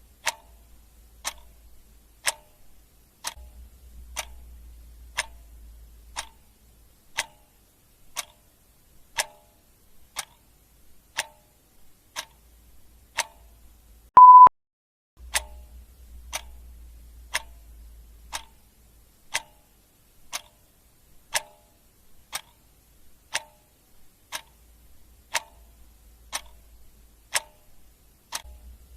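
Clock ticking steadily, about two ticks a second, alternating stronger and weaker ticks. About halfway through comes a single short electronic beep, louder than the ticks.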